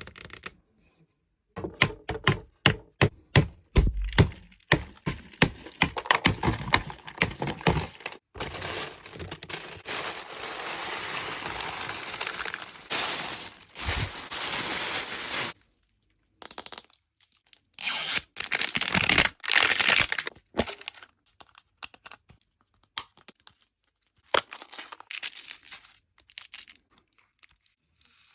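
A chocolate sphere being smashed open: a rapid series of sharp cracking hits, a couple each second, followed by a long stretch of crinkling and tearing of the packaging and further bursts of cracking.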